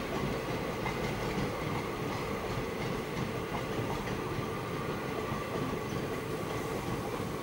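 Passenger train coaches rolling along the track: a steady rumble of wheels on rails.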